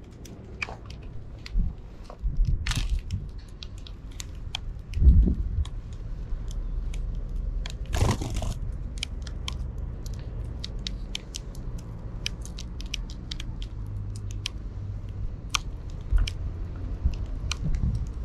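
Sparrows pecking and cracking seed close to the microphone: a scatter of small sharp crunching ticks over a low background rumble, with a brief rush of noise about eight seconds in.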